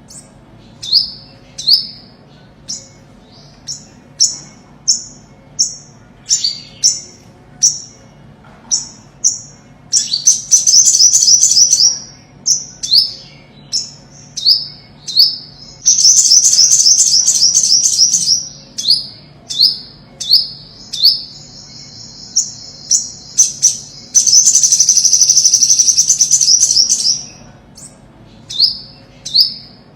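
Olive-backed (ornate) sunbird singing: a run of short, high, down-slurred notes about one a second. These are broken three times by loud, rapid high trills lasting about two seconds each.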